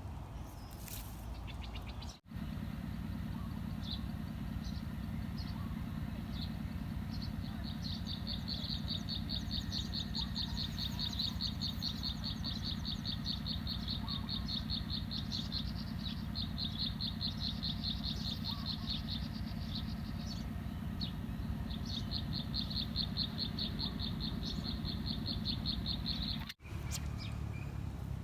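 An insect trilling in long runs of rapid, evenly pulsed high-pitched chirps over a steady low hum of outdoor background. The sound drops out for an instant twice, near the start and near the end.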